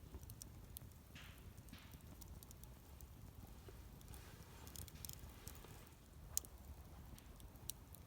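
Wood fire burning quietly, with faint scattered crackles, a couple of soft hisses, and a sharper pop of burning wood about six seconds in and a smaller one near the end.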